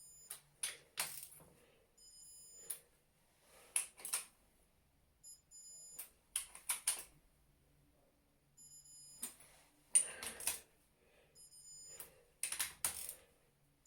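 Digital torque wrench beeping in short high bursts, about five times, each beep the signal that a main bearing cap bolt on a Cosworth YB engine has reached its stage-1 torque of 44 Nm. Between the beeps come pairs of sharp ratchet clicks as the wrench works each bolt.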